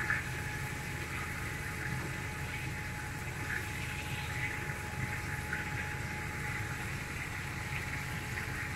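Marinated chicken sizzling in hot oil in a frying pan: a steady hiss with a few small pops.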